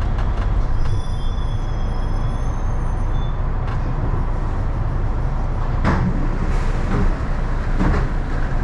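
Airport people mover train standing at a station with its doors open, giving a steady low rumble. Thin high tones sound for a couple of seconds near the start, and a few short soft sounds come later.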